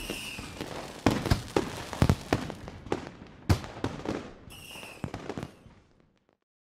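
Fireworks going off: a string of sharp bangs with crackle between them, and two short falling whistles, one at the start and one about four and a half seconds in. The sound fades out to silence about six seconds in.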